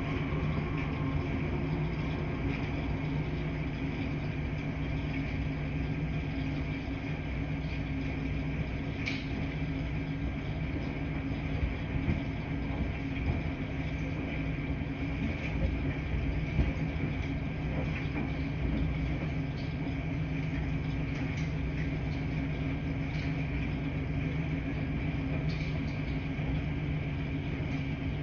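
Laundry room ambience: washing machines running with a steady hum and low rumble, with a few faint clicks and knocks scattered through it.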